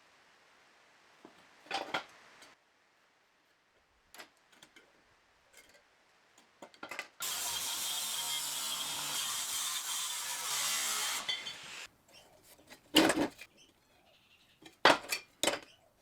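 A metalworking tool runs steadily for about five seconds, a dense hissing noise, with sharp knocks of handled metal a few seconds before and after it.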